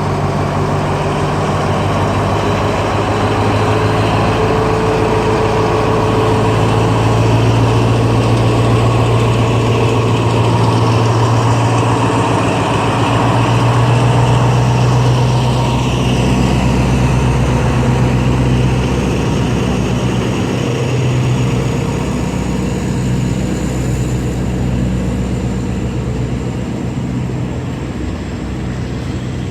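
Diesel locomotive engine running with a steady low drone, loudest in the middle and easing off near the end.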